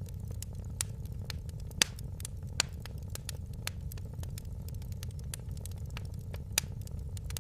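Wood fire crackling in a fireplace: frequent small sharp crackles and three louder pops over a steady low rumble.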